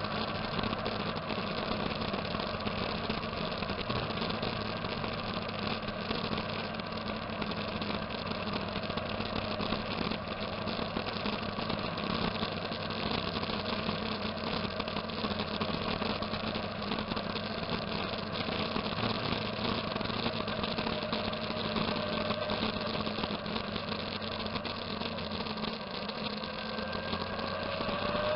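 Motorcycle engines running steadily at low revs, with an engine revving up near the end.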